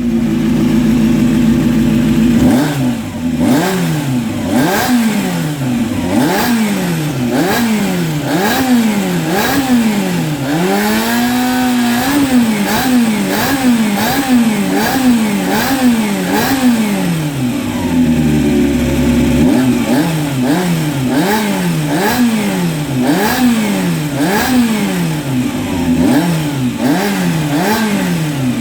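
Honda CBX400F air-cooled inline-four engine, freshly fitted with a new cam chain tensioner spring and slipper to cure cam chain noise. It idles steadily at first, then is blipped over and over, rising and falling about once a second, with a short steady idle around two-thirds of the way through.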